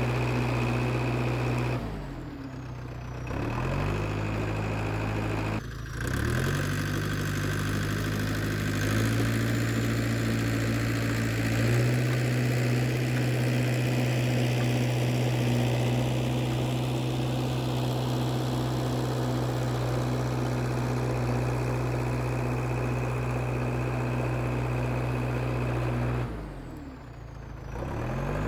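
IH TD8E crawler bulldozer's diesel engine running steadily. Its note steps up in pitch a few times, and twice sags and comes back: about two seconds in and again near the end.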